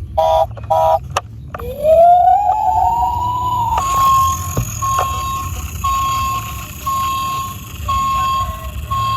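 Electronic siren sound: two short beeps, then a tone that rises in pitch over about two seconds, then a steady higher tone pulsing on and off about once a second.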